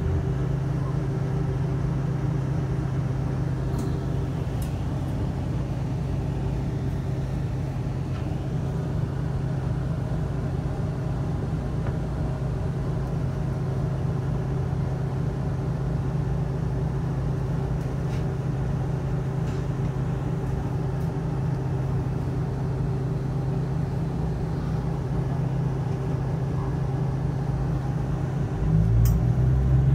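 Steady low hum inside a Taiwanese train carriage, with a constant drone that grows louder and rougher a second or two before the end.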